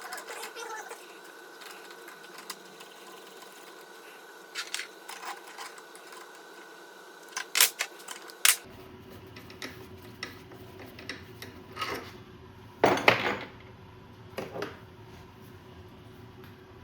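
Metal tools and parts clinking and knocking during hand work on a dirt bike's shock linkage. The sharp knocks come singly and in short clusters, loudest about thirteen seconds in, over a faint steady hum.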